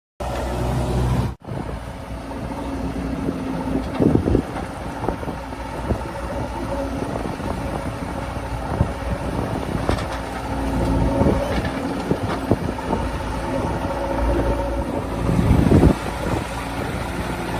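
Heavy diesel engine running steadily, with a few louder knocks and clunks about 4 seconds in and near the end.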